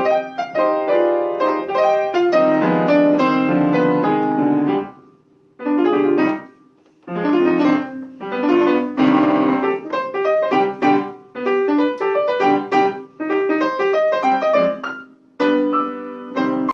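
Piano being played, several notes and chords at once, in phrases broken by short pauses about five, seven and fifteen seconds in.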